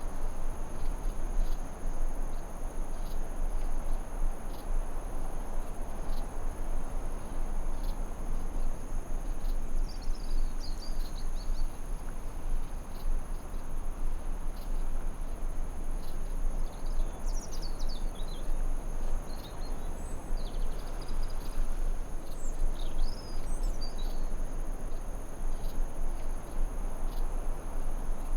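Forest ambience: crickets trilling steadily on a high pitch over a low, even background noise, with a few short bird chirps about a third of the way in and again past the middle.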